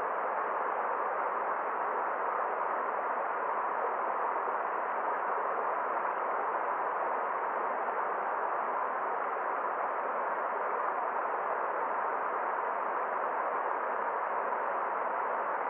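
A forest stream's flowing water: a steady, even rush with no splashes or other events standing out, dull, with no high hiss.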